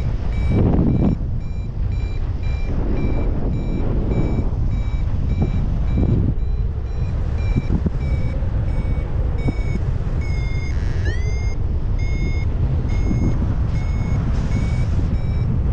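Flymaster paragliding variometer giving a steady series of short high beeps, the climb tone that signals rising air, with one upward-sliding tone about eleven seconds in. Heavy wind rumble on the microphone runs underneath.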